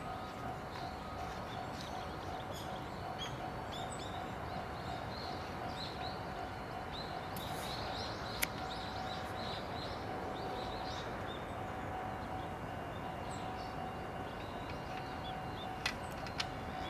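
Outdoor background noise with small birds chirping faintly throughout and a faint steady tone under it. One sharp click about halfway through and two more near the end.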